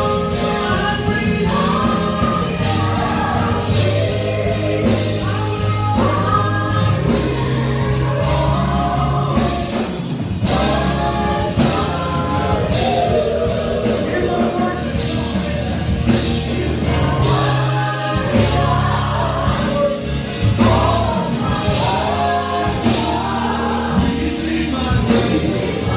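Live gospel praise music: a choir singing with a band, steady bass and drums.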